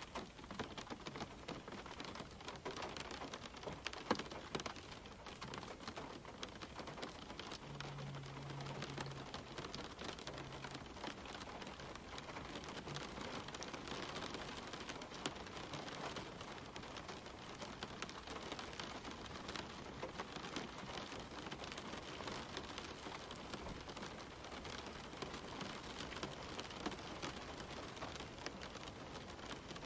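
Steady rain falling on leaves and the ground: a dense patter of individual drops ticking over a soft, even hiss.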